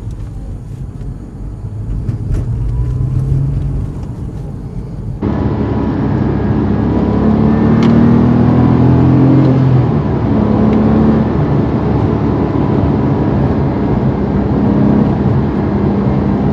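Porsche 911 997.1 flat-six engine and road noise while driving, the engine note rising and falling with the throttle. The sound changes abruptly about five seconds in and becomes fuller.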